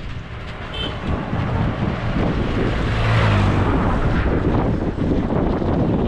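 Wind buffeting the microphone while riding a bicycle along a road, with a motor vehicle passing and swelling loudest about three seconds in.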